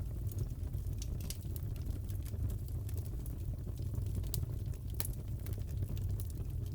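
Wood fire crackling in a fireplace: a steady low rumble with scattered sharp pops and crackles, one louder crack about five seconds in.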